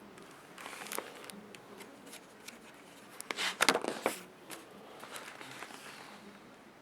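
Paper rustling and clicks from handling a picture book, as when a page is turned, loudest in a quick cluster about three and a half seconds in.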